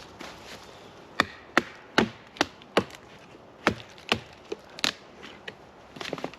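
Dry firewood being broken up: a quick run of sharp woody cracks, about two and a half a second, then a second run after a short pause, and a few lighter clicks near the end.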